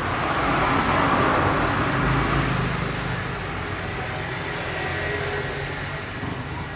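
Road traffic noise: a vehicle passing, loudest about a second in and slowly fading away.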